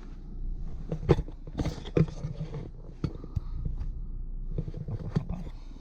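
Low rumble of a car heard from inside the cabin, with a few short knocks and rustles in the first two seconds.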